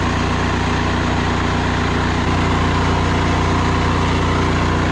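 Pressure washer rig's gas engine running at a steady idle.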